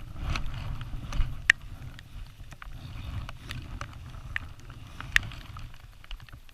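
Low rumble of wind on the microphone with scattered sharp clicks and knocks. A few louder clicks come about a second and a half in and about five seconds in.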